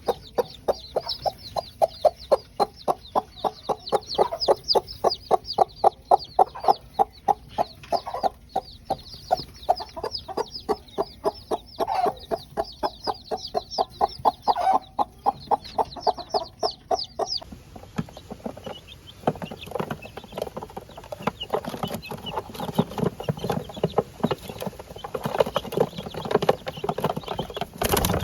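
Parrot-beak long-tail chickens calling: a fast run of short repeated clucks, several a second, with high falling chick peeps over it. About seventeen seconds in, the high peeps stop and a lower, more irregular chatter of calls takes over.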